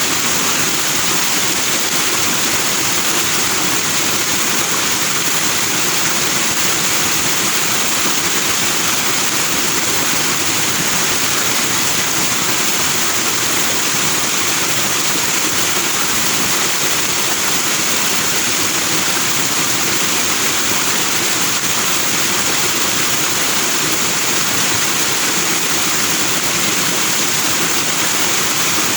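Forest stream rushing over rocks in white foam, a steady, unbroken hiss of flowing water.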